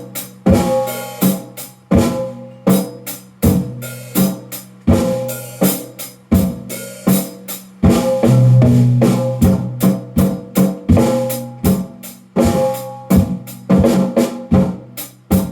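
Drum kit played in a steady beat, about one and a half strikes a second, with pitched low drum tones ringing between hits. About eight seconds in, a longer low tone rings out.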